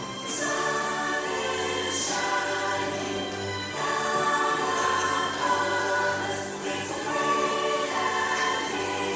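A choir singing a song, with long held notes that change every second or so.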